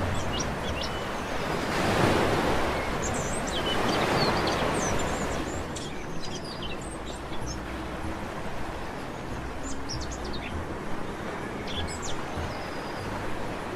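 Sea waves washing onto a beach, swelling near the start and again about two seconds in, then easing to a softer rush. Small birds chirp over them throughout in short, high calls.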